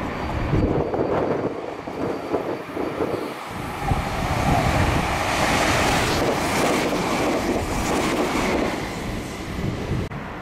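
Meitetsu electric train running through a station at speed without stopping: wheel-and-rail rushing noise that swells about four seconds in, is loudest for several seconds as the cars pass close by, and falls away near the end.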